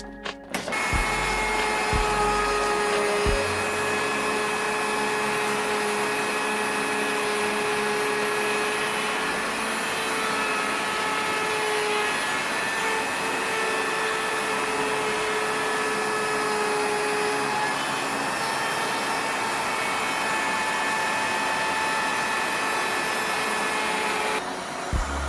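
An electric motor running steadily, a loud hiss with a high whine, such as a power tool or shop vacuum. It starts about half a second in and cuts off shortly before the end.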